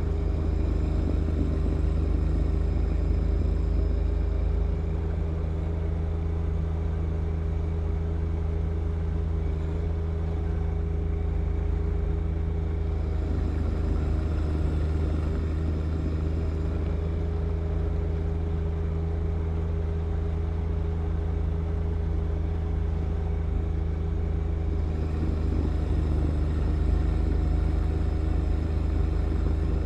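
John Deere 1025R compact tractor's three-cylinder diesel engine running steadily at a constant speed with a deep hum, while a fainter higher whine fades out and back in a few times.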